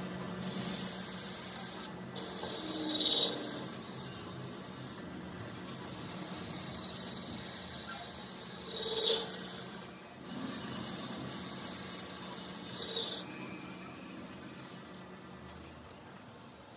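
A high-pitched whistling tone, held steady in about five stretches of one to five seconds with short breaks between them, its pitch dipping slightly at times; it stops a couple of seconds before the end.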